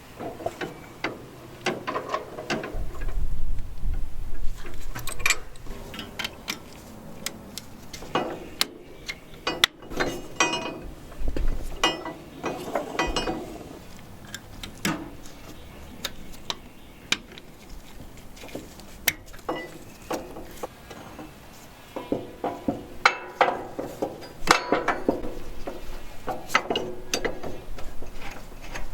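Hand tools and metal parts clicking and clinking in irregular clusters, with bursts of ratchet-like clicking.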